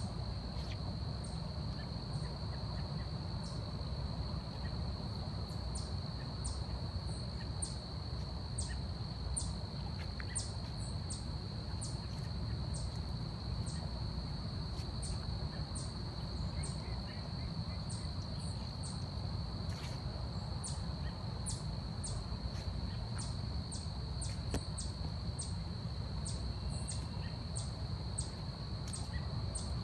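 Forest ambience: a steady high-pitched insect drone runs throughout, with many short, sharp, very high chirps scattered over it and a constant low rumble underneath.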